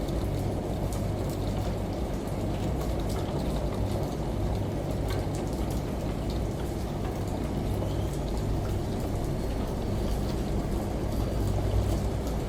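Steady rain with scattered sharp drips and patter, layered over a low steady hum from a running washing machine.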